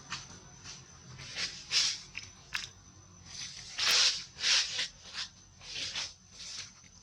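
Baby monkey crying in a series of short, high-pitched cries, about ten in all, loudest about four seconds in.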